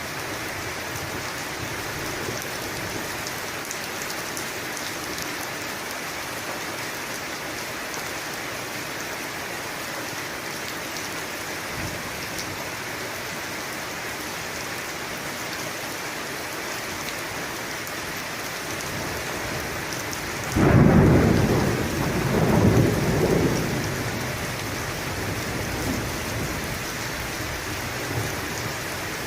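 Steady heavy rain falling, with a loud clap of thunder about two-thirds of the way through that rumbles on and fades over several seconds.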